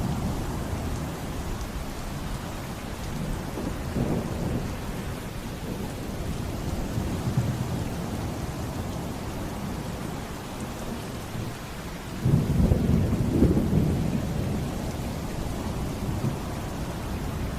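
Thunderstorm: steady heavy rain with thunder rumbling, the loudest low rumble breaking in suddenly about twelve seconds in and dying away over a couple of seconds.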